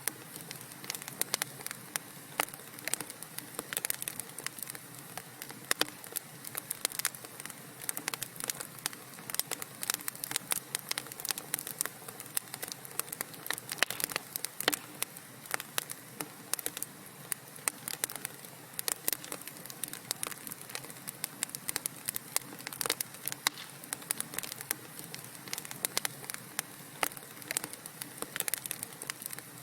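Wood fire burning in a fireplace, crackling with many small irregular pops and snaps over a faint steady hiss.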